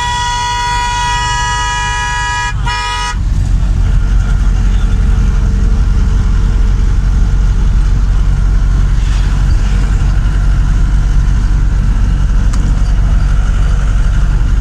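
A vehicle horn sounds one long blast and then a short second one in the first three seconds, followed by the steady low rumble of a vehicle travelling on the road.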